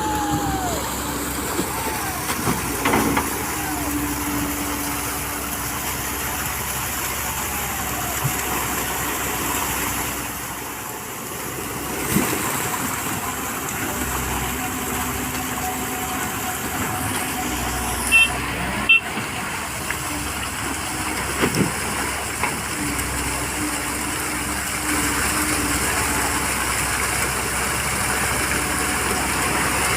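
L&T Komatsu PC130 hydraulic excavator running as it loads sand, a steady engine din with a hum that comes and goes. A few sharp knocks come about eighteen to nineteen seconds in.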